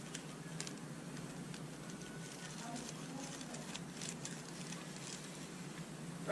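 Faint scattered clicks and light taps of motorcycle fork parts being handled, over a steady low hum.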